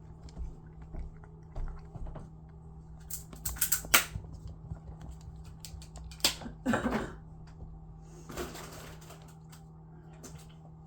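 Cat chewing and crunching its food close to the microphone, with a few louder sharp clicks and clatters about a third and two thirds of the way through, over a steady low hum.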